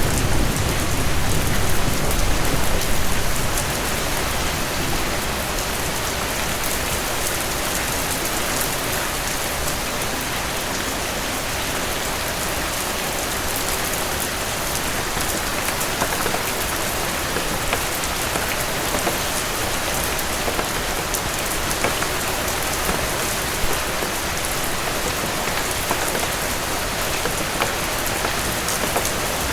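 Steady, heavy rain pattering on surfaces, with fine scattered drop ticks. A low rumble of thunder dies away over the first few seconds.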